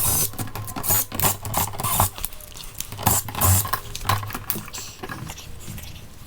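Irregular clicks, knocks and scrapes of hands and tools handling things, fading toward the end.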